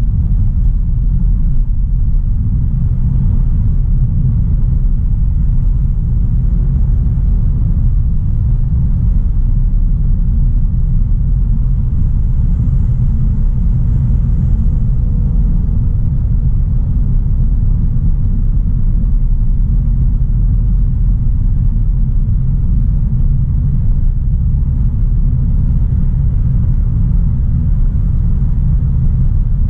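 2016 Audi A3 Sportback 1.4 TFSI being driven at a steady pace, a constant low rumble of engine and road noise with no changes in pitch or loudness.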